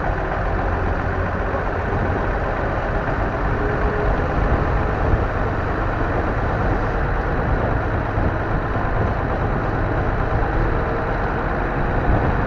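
M923A1 military 5-ton 6x6 truck's six-cylinder diesel engine running steadily as the truck is driven, a constant low rumble with no change in revs.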